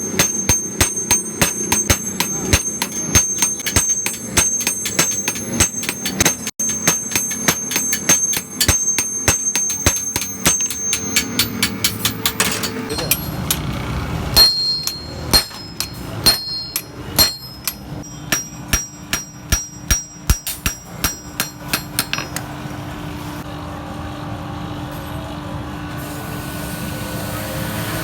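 Hammer striking hot steel on an anvil while forging an old axe head: a fast run of blows, each with a ringing metallic note, then slower blows, giving way near the end to a steady machine hum.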